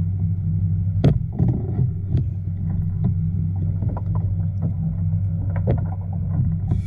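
Steady low motor hum on the water, with scattered knocks and taps from gear on a kayak, the loudest about a second in.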